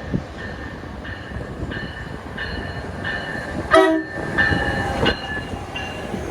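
Passing NJ Transit train with a bell ringing steadily, about three strikes every two seconds, over the rumble of the train. Just before the middle comes a short, loud horn note.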